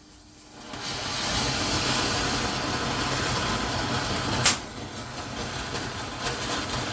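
Stargazer 'Plasma' firework fountain catching and spraying with a steady hiss, with one sharp crack about four and a half seconds in.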